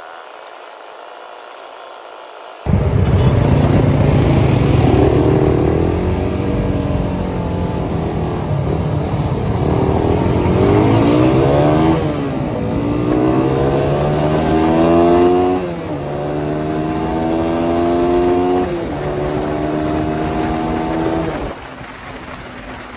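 Suzuki Satria FU 150's single-cylinder four-stroke engine through an aftermarket CBU Thailand exhaust, coming in abruptly about three seconds in and accelerating hard through the gears. The pitch climbs and drops back at each upshift, about five times, then eases off near the end.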